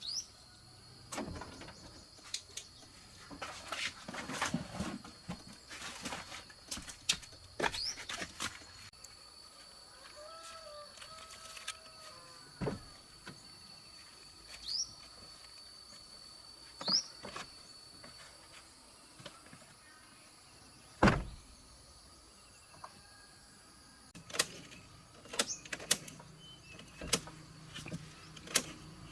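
Scattered knocks and clicks, the loudest a single thump about 21 seconds in, over a faint steady high whine during the first half, with a few short rising chirps.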